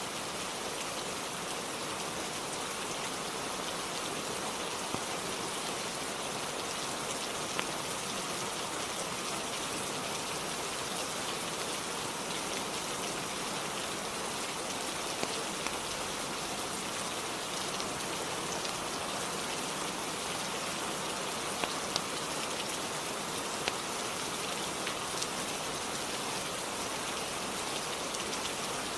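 Steady rain falling, with a few sharp ticks scattered through.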